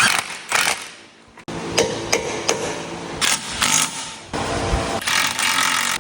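Mechanic's tools working on a car's front axle and suspension: short clicks, clanks and brief bursts of ratchet or power-tool noise, broken by abrupt cuts.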